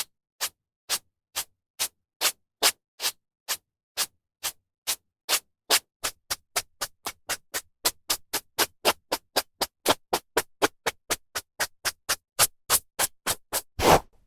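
Hairbrush strokes through hair: short swishes with silence between, speeding up from about two a second to about four a second through the middle, with a longer, fuller stroke near the end.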